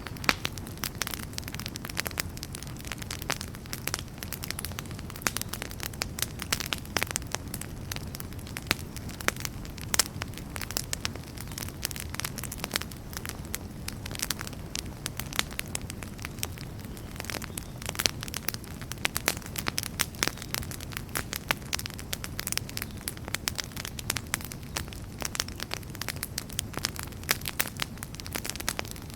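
Wood campfire burning, with dense, irregular crackles and pops over a steady low rumble of the flames.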